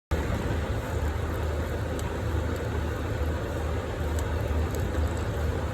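Metal lathe running steadily with a deep motor hum, cutting in abruptly just after the start, with a few faint high ticks over it.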